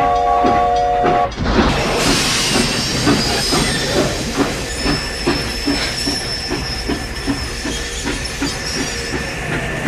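Steam locomotive sound: a whistle chord held for about a second, then a steady rhythmic chugging clatter of about three beats a second over a steam hiss.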